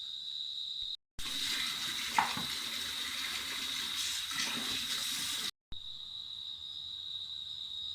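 Water running from a tap into a sink or basin for about four seconds, with a single knock partway through, between short sudden cuts. Before and after, crickets keep up a steady high chirring tone.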